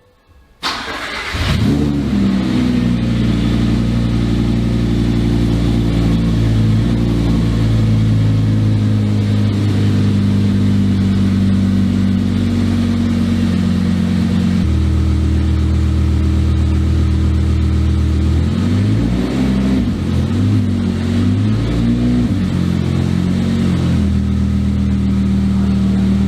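Mid-mounted V10 engine in a Volvo 240 race car starting up about half a second in and settling into a steady idle. The idle shifts once partway through, then the revs rise and fall a few times before holding steady again near the end.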